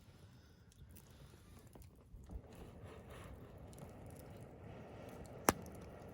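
Wood campfire crackling softly, with scattered small snaps and one sharp, loud pop about five and a half seconds in.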